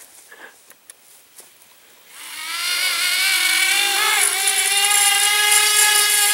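Tiny electric motors and propellers of a Blade Inductrix Switch spooling up about two seconds in: a high whine that rises quickly in pitch, then holds steady under throttle. A few faint clicks come before it.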